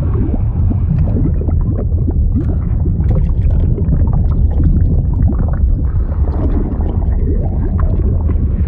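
Liquid sound effect: a deep, steady rumble with continual bubbling and gurgling pops over it.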